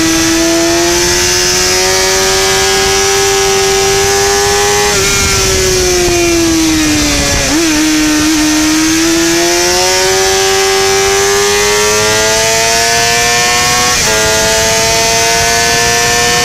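Sportbike engine at high revs, heard onboard. Its pitch climbs slowly, falls for a couple of seconds in the middle as the bike slows, then climbs again, with an upshift near the end. A steady rush of wind sits over it.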